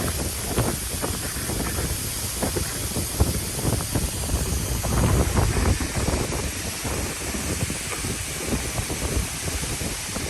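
Waterfall rushing as a steady hiss, with wind buffeting the microphone in irregular low gusts.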